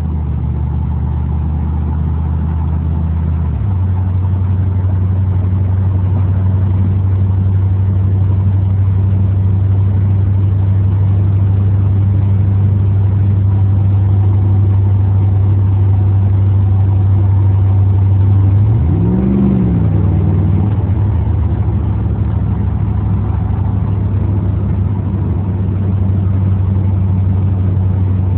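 Car engine and exhaust droning steadily, heard from inside the cabin while driving at speed. The engine note steps down a few seconds in, then briefly rises and falls about two-thirds of the way through before settling back.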